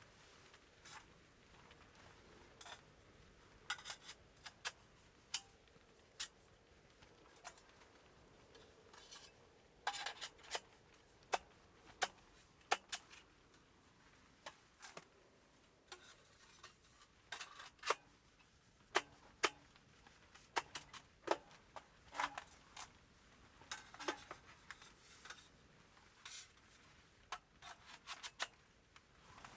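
Irregular sharp clicks and taps, scattered and sometimes in quick clusters, over a quiet background.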